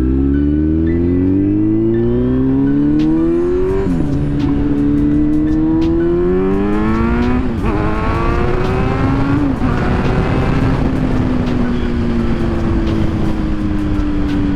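2022 Kawasaki Z900's inline-four engine accelerating through the gears: the revs climb and drop sharply at three upshifts, about four, seven and a half and nine and a half seconds in. After that it holds a steady cruise, easing off slightly.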